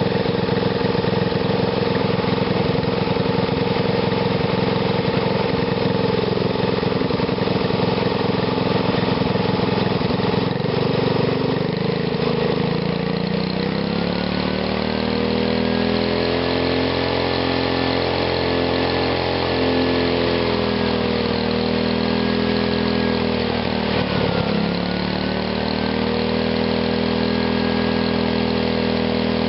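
Small gasoline engine, fed through a GEET-style fuel reformer reactor, running smoothly. Its speed picks up about halfway through, then dips briefly near the end and recovers.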